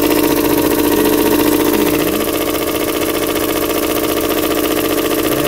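2003 Mazda Protege5's 2.0-litre four-cylinder engine idling steadily under the open hood, with a strong steady hum and a weird little noise that the owner thinks may be a worn alternator bearing.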